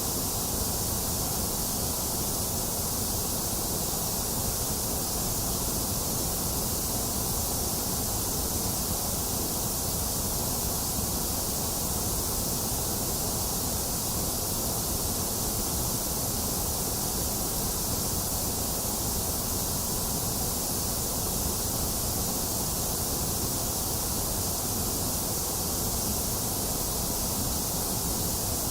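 Steady generated white noise: a constant, unchanging hiss with no events or variation.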